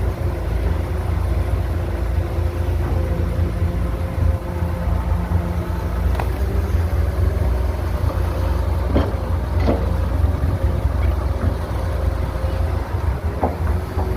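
Heavy construction machine's diesel engine running steadily under load, a deep continuous rumble with a faint steady whine above it. A few short knocks sound about six, nine, ten and thirteen seconds in.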